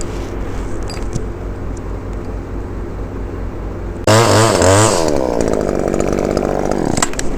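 A chainsaw revs up suddenly about four seconds in, its pitch rising, then falling away over a couple of seconds before it stops abruptly near the end. A steady low engine hum runs underneath throughout.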